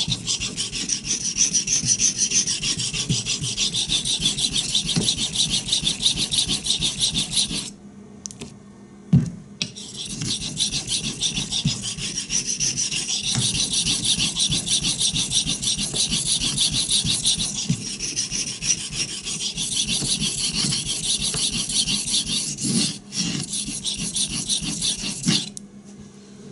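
Steel knife blade (CPM-3V) stroked rapidly back and forth on a whetstone with a rocking cradle motion along a convex edge, a steady gritty scraping. The strokes pause for about two seconds with a single knock partway through, dip briefly later, and stop shortly before the end. The sharpener is still working to raise a burr, which has not come up yet.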